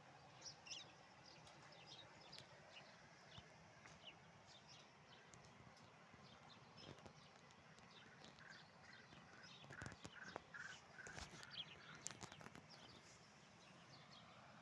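Faint chirping of small birds, with a quick run of short repeated notes a little past the middle and a few light clicks.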